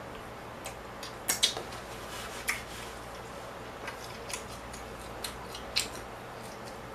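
A person chewing a mouthful of rib close to the microphone, with a scattering of sharp wet lip smacks and mouth clicks. The loudest come as a quick pair about a second and a half in.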